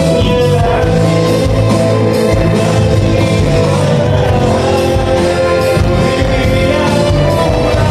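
Live band playing a rock song, with a steady drum beat and singing.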